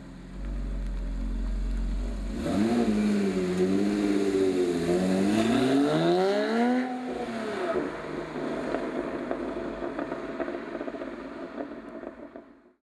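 Porsche 997.2 Carrera S 3.8-litre flat-six breathing through a Maxflo sport exhaust with headers, X-pipe and mufflers: idling, then blipped several times from about two seconds in, pitch swinging up and down with one longer climb and drop, before settling back to a steady idle.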